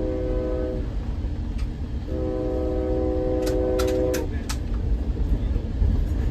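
Train horn sounding a short blast, then a longer blast about two seconds later, over the steady low rumble of the moving ACE commuter train. A few sharp clicks come near the end of the second blast.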